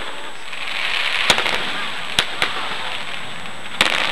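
Fireworks going off: sharp bangs about a second in and twice just after two seconds, then a quick cluster of bangs near the end, over a steady hiss.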